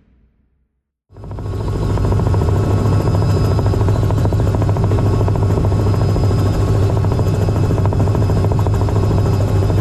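Robinson R66 helicopter in flight: steady rotor and turbine engine noise with a thin high whine, cutting in suddenly about a second in after a brief silence.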